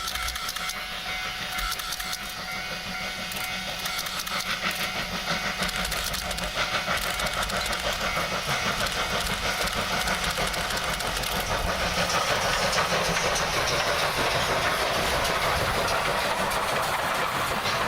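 Steam locomotive C57 1 running with its train, the sound growing steadily louder as it approaches.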